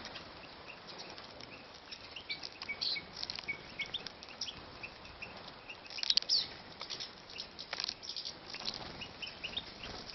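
Captive goldfinches and bullfinches making short, high chirping calls throughout, mixed with scattered light clicks and taps of birds moving about their cages. A louder cluster of calls comes about six seconds in.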